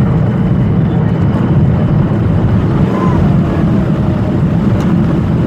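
Steady low rumble of a Boeing 737 airliner's engines, with faint voices in the background.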